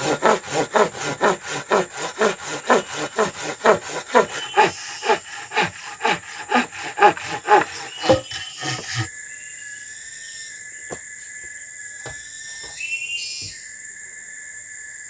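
Hand saw cutting through wood in quick, even strokes, about three a second, stopping about nine seconds in.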